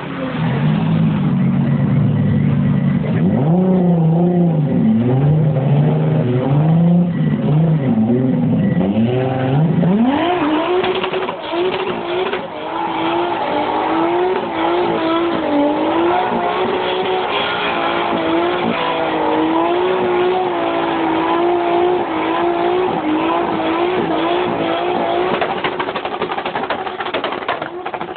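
Turbocharged Toyota Supra's straight-six revving up and down in blips, then about ten seconds in climbing sharply to high revs and held there, wavering, while the rear tyres spin in a smoky burnout; the revs fall away near the end.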